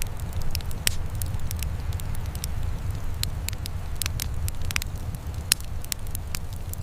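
Wood fire burning in a fireplace: a steady low rumble of flames with many sharp crackles and pops at irregular moments.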